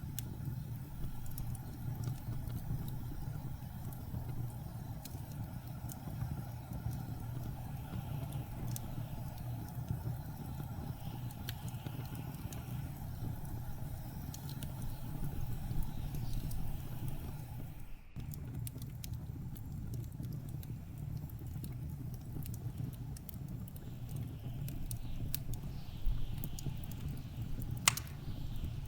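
Steady low rumble of blizzard wind with the scattered crackles and pops of a burning wood fire, one sharper pop near the end. The sound cuts out for an instant about two-thirds of the way through.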